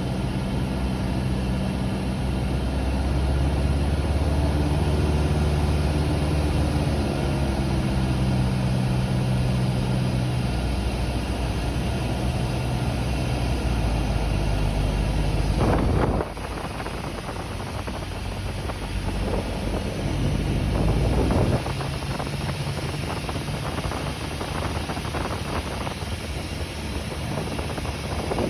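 Cessna 172's piston engine and propeller droning inside the cockpit, the engine note shifting in pitch during manoeuvring. About sixteen seconds in, the drone drops suddenly in level and turns noisier with rushing air, then eases again a few seconds later.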